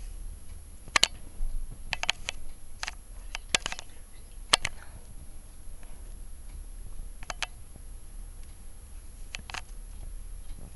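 A few sharp, irregular light clicks and taps, most of them in the first half.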